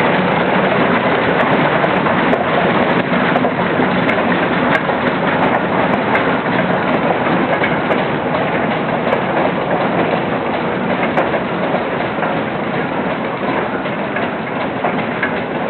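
Steam tractor on the move: a steady mechanical clatter and rush that eases slightly toward the end.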